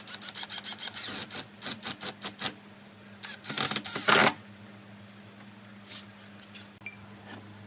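Rapid mechanical clicking and clatter in two bursts: one for the first two seconds or so, a louder one around the fourth second, over a steady low hum.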